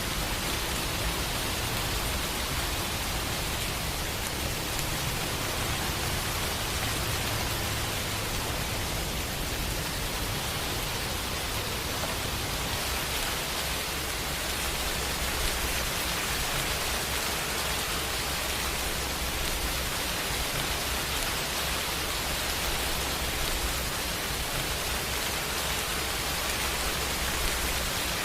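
Steady heavy rain: a dense, even hiss of falling rain with a low rumble underneath.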